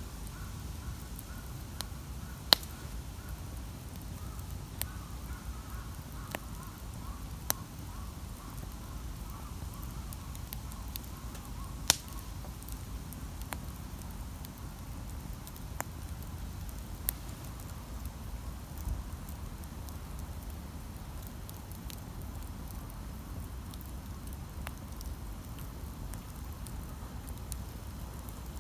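Wood campfire burning, with scattered sharp crackles and pops over a steady low rumble, the loudest pops a couple of seconds in and about twelve seconds in.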